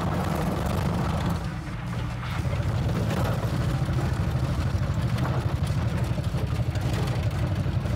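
A car being towed to bump-start its Lada four-cylinder engine, converted to two-stroke: the engine is turned over by the rolling wheels with a low, rapidly pulsing sound but does not fire, mixed with the tow vehicle's engine running.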